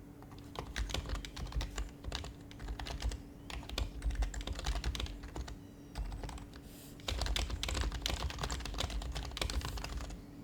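Typing on an HHKB Professional HYBRID Type-S keyboard with its silenced Topre switches: quick runs of soft key strokes, broken by a pause of about a second a little past the middle. A faint steady hum sits underneath.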